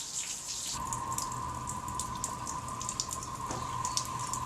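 Fresh water from a hose spattering and dripping as a boat is rinsed, with many small splashes. About a second in, a steady mechanical hum with a whine sets in and holds.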